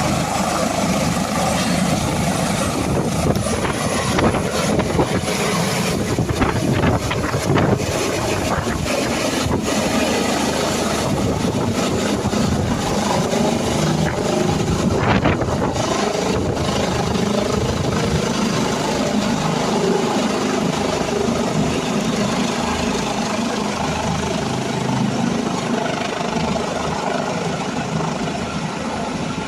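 Helicopter running close by: a steady rotor and engine din with a thin high turbine whine over it.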